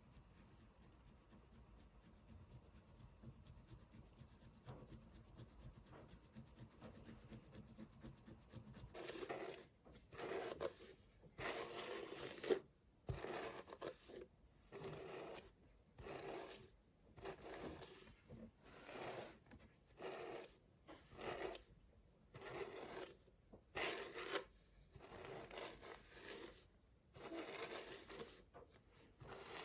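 Faint rustle of fingertips massaging the scalp, then, about nine seconds in, a massage hairbrush drawn through hair in repeated scraping strokes, about one a second.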